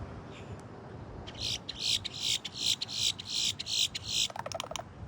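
A bird calling: a series of about ten loud, high notes, roughly three a second, ending in a quick lower rattle.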